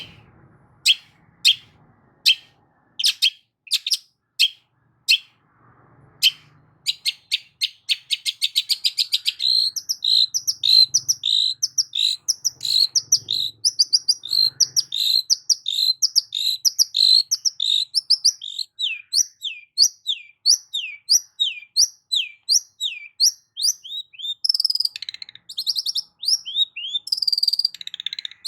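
Long-tailed shrike (cendet) singing. First come sharp single chips a little under a second apart, then about seven seconds in a fast chattering run, then a long string of quick falling whistled notes, several a second.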